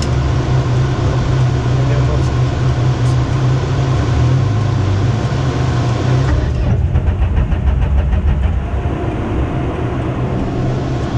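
Peugeot 206 RC rally car's 2.0-litre four-cylinder engine idling, heard from inside the cabin. About six and a half seconds in, the upper hiss thins out and a faint even pulsing comes through.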